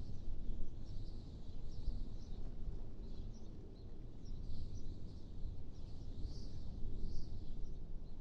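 Steady low wind rush, with small birds chirping in short high notes again and again over it.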